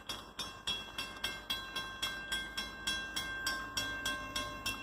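Railroad crossing bell ringing, about three strikes a second, each strike ringing on with a clear tone.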